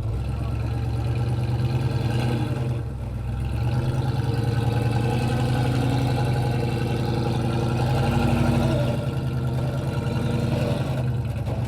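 Toyota truck's engine running steadily under load as the truck, bound up on a rock obstacle, works its way back off it; the engine swells briefly about eight seconds in.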